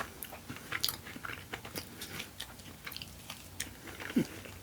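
Close-miked chewing of food: irregular wet, crunchy mouth clicks and smacks, with a brief low hum about four seconds in.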